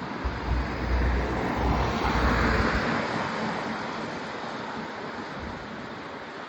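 Wind rushing over the microphone of a camera on a moving bicycle, with low buffeting gusts in the first half and a swell of rushing noise about two to three seconds in that then eases off.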